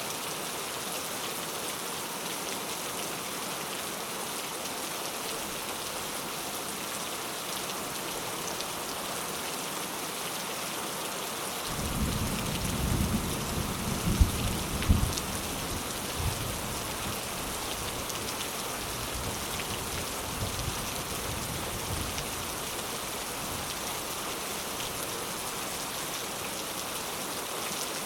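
Steady rain falling, with a roll of thunder about halfway through: a sudden low rumble with a few sharp cracks that rumbles away over several seconds.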